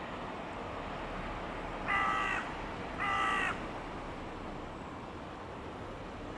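A bird calling twice, two short harsh calls about a second apart, each about half a second long, over a steady background hush.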